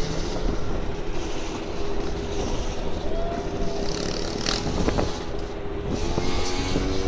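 Motorbike engine running steadily while riding, over a heavy low rumble.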